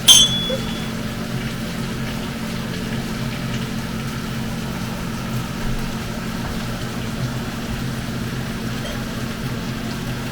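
A glass clinks once right at the start, a sharp tap with a short bright ring. Then a steady low mechanical hum runs on with a faint hiss.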